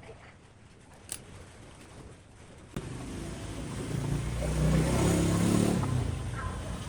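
A small engine cuts in suddenly a little under three seconds in, running with a low steady note that swells up and then eases back down. A sharp click comes about a second in.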